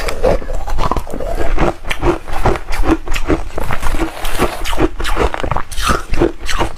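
Reshaved refrigerator ice being chewed and crunched between the teeth, close up, in a steady run of crisp crunches at about three a second.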